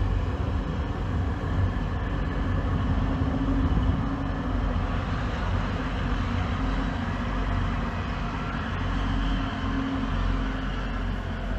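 Class 180 diesel multiple unit passing close by: a steady, loud low rumble with a droning tone held through it.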